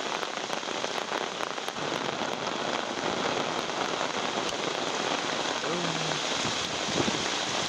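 Heavy rain drumming on an umbrella held overhead, a dense steady patter with many sharp individual drop hits.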